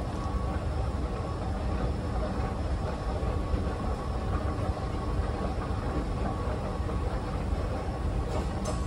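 Escalator running, a steady low mechanical rumble with a faint steady whine over it.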